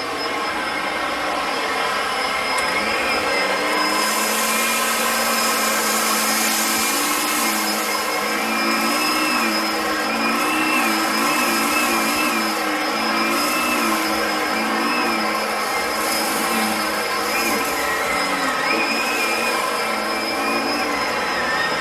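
Upright vacuum cleaner running steadily, its motor whine wavering up and down in pitch, with stretches of louder airy hiss.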